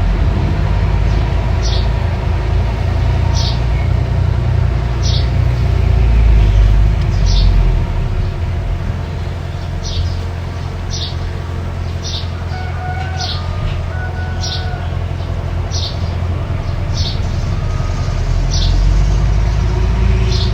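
Mini bulldozer engine running steadily under load, a heavy low rumble. Short high chirps recur about every second and a half over it.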